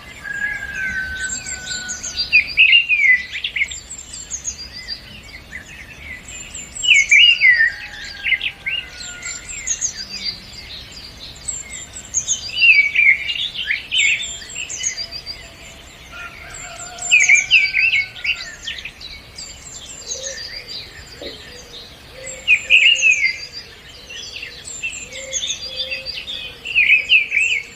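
Several birds singing and chirping. One loud, busy song phrase recurs about every five seconds, with high thin chirps in between and a few lower drawn-out whistles.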